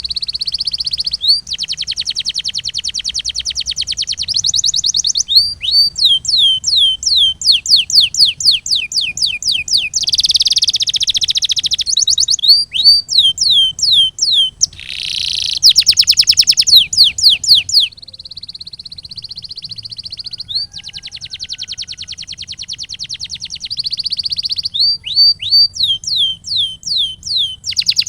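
Domestic canary singing: fast rolling trills alternate with runs of repeated swooping whistled notes, about two a second, with a softer steady whistle in the middle.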